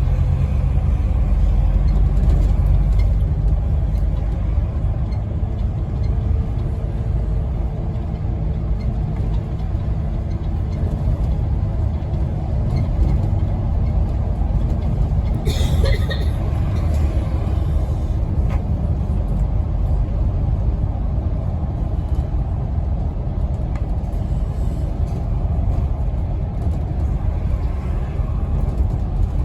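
Onboard sound of a Scania N270UD OMNICity double-decker bus on the move: its five-cylinder diesel engine and the road noise make a steady low rumble. A short hiss comes about halfway through.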